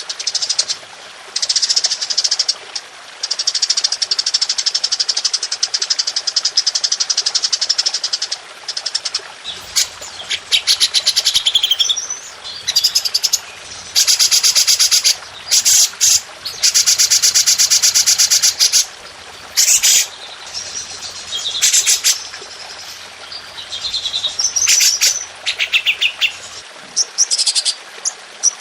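Songbird singing in rapid-fire trills: long runs of very fast, sharp, high repeated notes in bursts of one to three seconds with short breaks. This is the 'tembakan' style of song used as a masteran, a training recording for caged songbirds.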